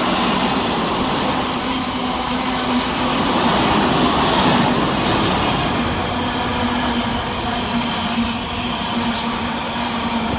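Class 66 diesel locomotive, with its two-stroke V12 engine, hauling a freight train through at speed. A steady engine drone runs over the rumble of the rolling wagons.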